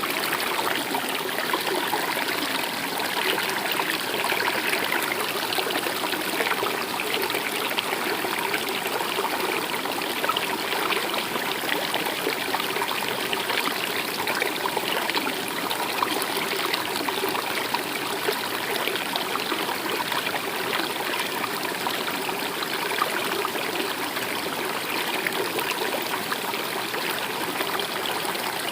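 Stream of water flowing steadily, a continuous babbling and trickling rush.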